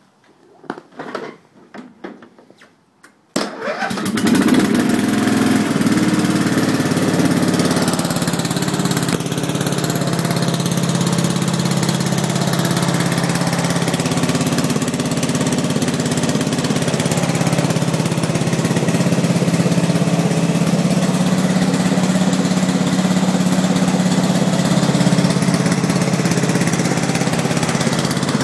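Old Craftsman 11 hp riding lawn tractor engine catching about three and a half seconds in, after a few short clicks and knocks, then running steadily.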